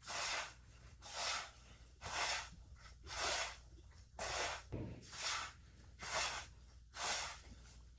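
Dry panko and almond crumbs being stirred together in a bowl, a short gritty swish with each stroke, about one a second.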